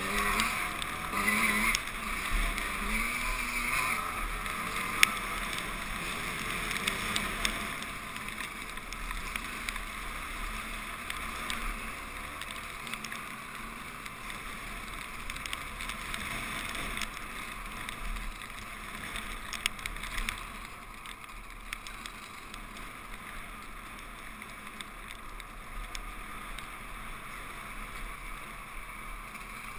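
Two-stroke 125 cc enduro motorcycle engine running under way, its pitch rising and falling with the throttle in the first few seconds and then holding steadier. A sharp click about five seconds in.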